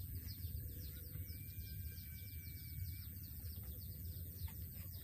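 Small birds chirping in quick, high, repeated notes over a steady low rumble, with one thin, held, whistle-like note about a second in that lasts under two seconds.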